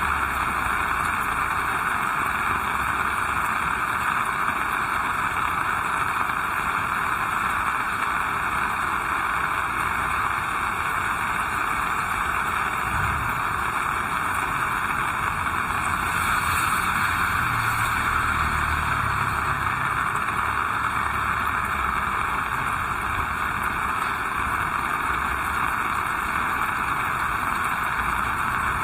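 Heavy rain falling in a steady hiss, with a faint low rumble coming and going around the middle.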